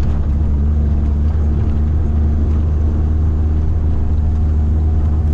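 Steady engine and road drone of a moving vehicle heard from inside the cabin, a low hum with a faint steady tone above it.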